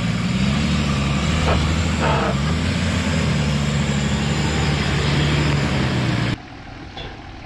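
Off-road 4x4's engine running, its pitch rising and falling a little with the throttle. It cuts off suddenly about six seconds in, leaving a much quieter background.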